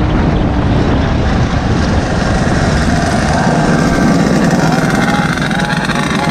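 Small engines of mini bikes and Go-Peds running at riding speed, loud and steady, with one engine's pitch wavering up and down near the end.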